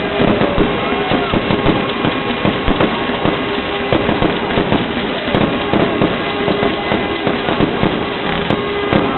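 Fireworks going off in a rapid, continuous string of overlapping bangs and crackles.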